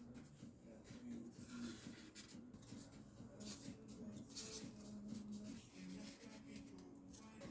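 Faint, irregular scratching strokes with a faint low hum underneath.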